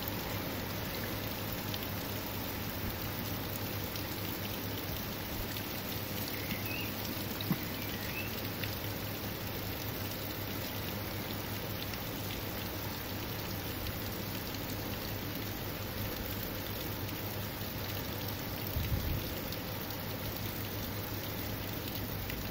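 Steady rain falling, an even hiss with the odd louder drop striking a surface.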